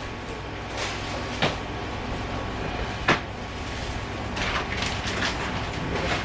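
Kitchen handling clatter: a handful of short knocks and clicks, about five in a few seconds, as things are picked up and set down or put away. The loudest knock comes about three seconds in, over a low steady hum.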